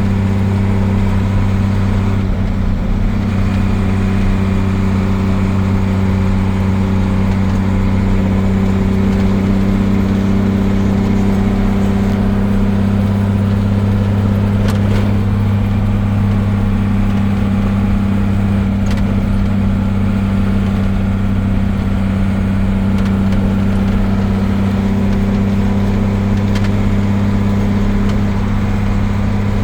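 Truck engine running steadily at cruising speed, a low constant drone over road and tyre noise.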